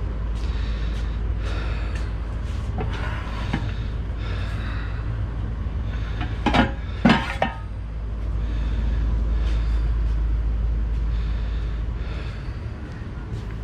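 Low steady rumble and soft recurring rustles of someone walking and handling things close to a body-worn camera microphone, with breathing. A little past the middle come two sharp metallic knocks about half a second apart, as the aluminium extrusion legs are picked up and knock together.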